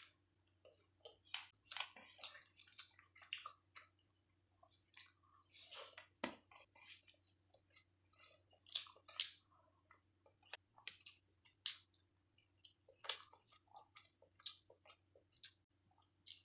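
A person chewing chicken biryani close to the microphone, with irregular wet smacking and crunching mouth sounds.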